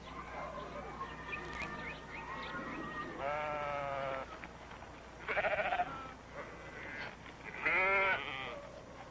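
Livestock bleating three times, each bleat lasting up to about a second, with small birds chirping during the first few seconds.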